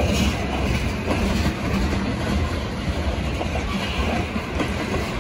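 Freight train of tank cars rolling steadily past: a continuous rumble of steel wheels on the rails, with some clicking as the wheels cross rail joints.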